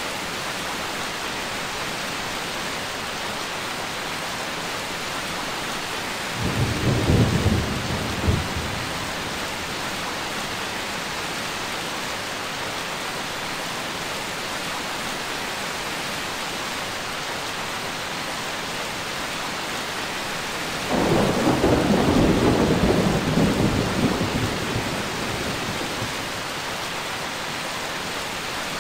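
Steady rain with two rolls of thunder: a short one about six seconds in, and a longer one starting about two-thirds of the way through that fades over several seconds.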